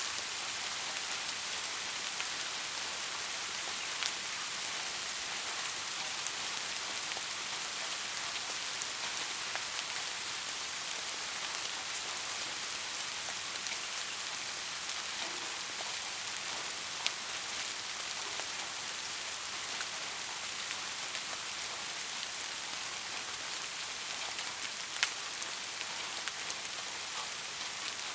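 Steady rain, an even high hiss of many drops, with a few sharper single-drop ticks standing out now and then.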